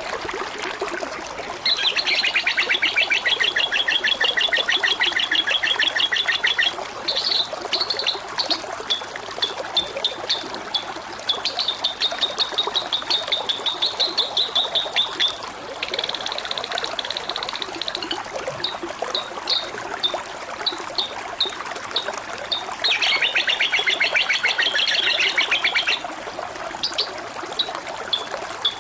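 Water trickling steadily, overlaid by loud, rapid, high-pitched chirping trills lasting a few seconds each: three long ones and a shorter one, with scattered single chirps in between.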